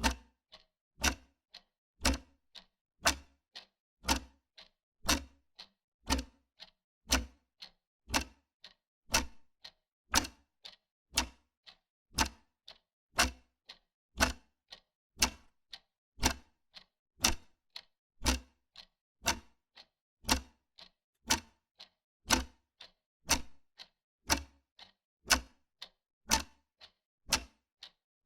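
Wall clock ticking steadily, about two ticks a second: a louder tick each second with a softer tock between.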